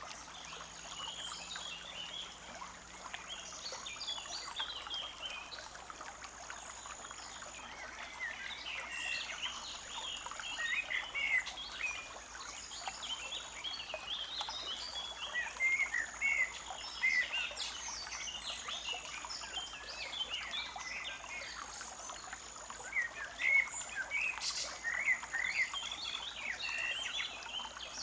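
Small songbirds chirping and twittering over the steady rush of a forest stream, with a thin high note held for a second or two and repeated over and over.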